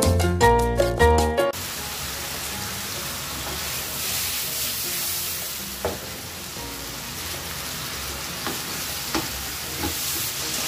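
Upbeat background music for about the first second and a half, cutting off abruptly. Then sliced bitter melon sizzling in oil in a frying pan, with a few knocks of a spatula against the pan in the second half.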